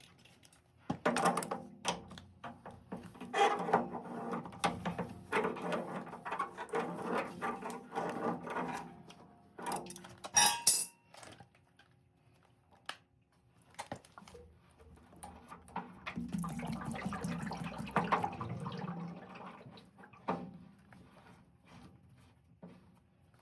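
Clinking of metal tools and fittings mixed with splashing, gurgling water while a water heater's drain is worked on, in two busy stretches with a quieter gap between.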